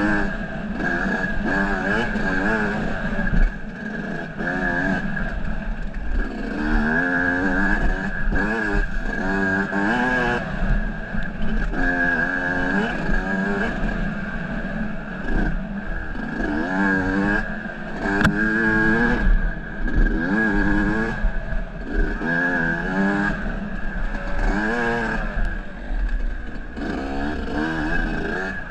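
Off-road vehicle engine running under load, revving up and falling back again and again as it is ridden along a trail. It is on its first ride after its seized engine was repaired.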